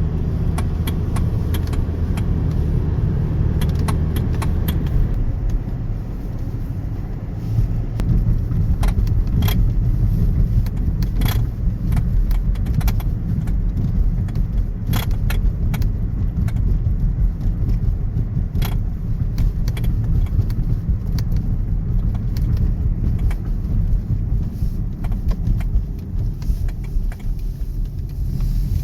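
Steering rattle in a 2013 Hyundai Sonata on the move: irregular sharp knocks and clicks over a steady low road and engine rumble. The rattle is the sign of a worn plastic steering coupler.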